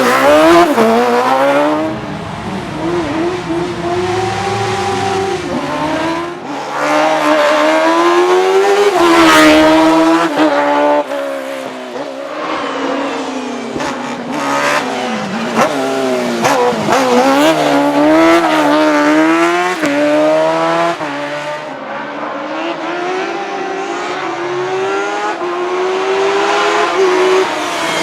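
Racing car powered by a Suzuki GSX-R 1000 motorcycle inline-four engine, revving hard at full race pace. The pitch climbs steeply and drops back many times as it changes gear and lifts off.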